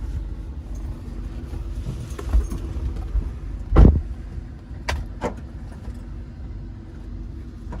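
A car engine running steadily at idle, with a heavy thump about four seconds in and two sharp clicks about a second later.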